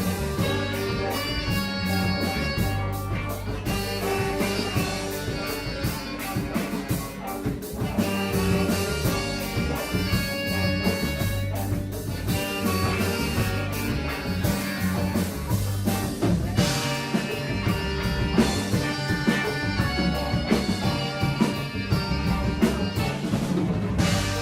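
Live band playing an instrumental passage: a drum kit keeping a steady, fast beat under held notes from pitched instruments.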